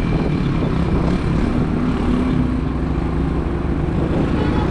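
Motorbike engine running steadily under way, heard from a helmet camera, as a dense low rumble whose pitch shifts slightly around two seconds in.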